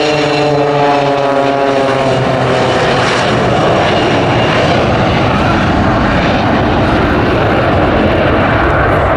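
Low flypast of a Boeing 727 and Extra 300 stunt planes. An engine tone falls in pitch over the first few seconds as they pass, then turns into a loud, steady roar of engine noise.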